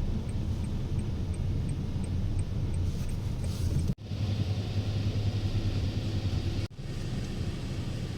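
Steady low rumble of a moving vehicle, in three stretches split by sudden cuts about four and six and a half seconds in.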